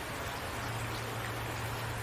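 Steady rain falling, an even continuous hiss of drops, with a steady low hum underneath.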